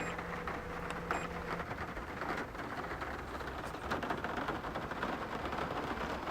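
Heavy typhoon rain pattering densely on a car's roof and body. A low steady hum runs under it for the first second and a half, then stops.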